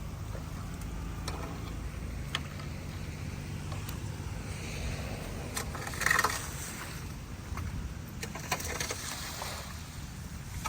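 Footsteps wading and sloshing through standing floodwater on a floor, with a louder splash about six seconds in, over a steady low rumble.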